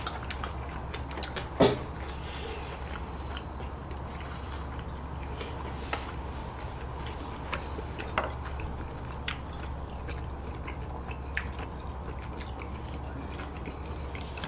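Quiet eating at a table: chewing of steamed dumplings and ramen, with scattered light clicks of chopsticks on dishes and a sharper tap near the start and again about eight seconds in, over a steady low hum.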